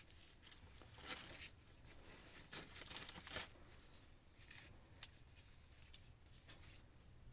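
Near silence, with faint scattered rustles and light ticks from handling something in a small room.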